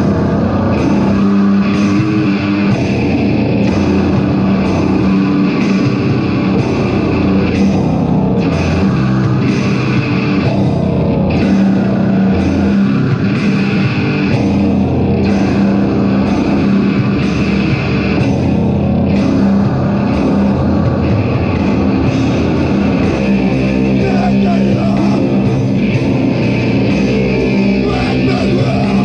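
A heavy metal band playing live and loud: distorted electric guitars and bass over drums, with cymbals struck at a steady pulse.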